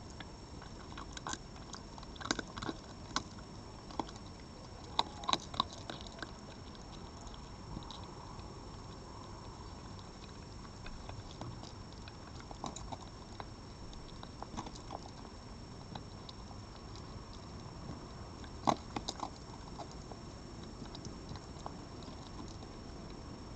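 An animal chewing and crunching food: irregular sharp clicks and crunches in clusters, the loudest about three-quarters of the way in, over a steady hiss and a faint high whine.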